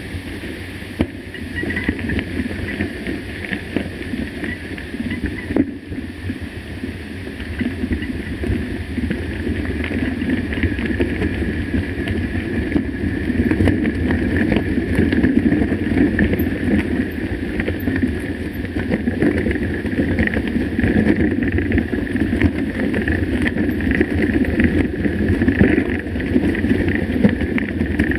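Mountain bike riding on a trail: wind buffeting the camera microphone over a steady rumble and rattle from the tyres and bike, growing a little louder about eight seconds in.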